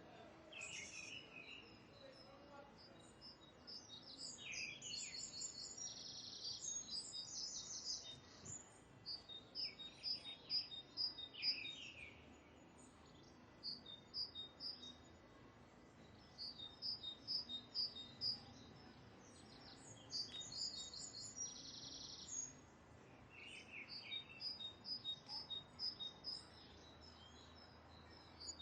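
Birds singing: repeated runs of short high chirps, about five a second, mixed with short falling whistles, over faint outdoor background noise.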